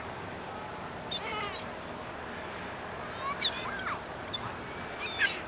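Birds calling over a steady background rush: short, high, chirping calls with quick pitch slides, one about a second in and a cluster from about three seconds in to near the end.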